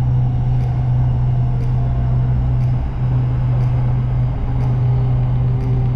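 Cabin noise of an SRT Red Line electric commuter train running at speed on its elevated track: a steady low rumble and hum, with a faint tick about once a second.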